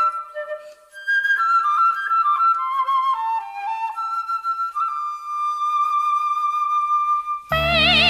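Solo flute playing a slow melodic passage, ending on a long held note; near the end an orchestral accompaniment comes in suddenly and loudly.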